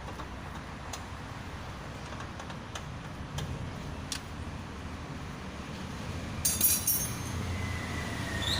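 Small metal tools and engine parts clicking and clinking during motorcycle engine assembly, with a brighter metallic clatter about six and a half seconds in, over a low steady rumble.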